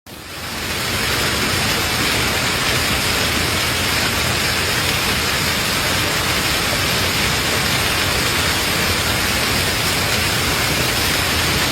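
Storm precipitation pelting down hard, a dense steady hiss that fades in over the first second.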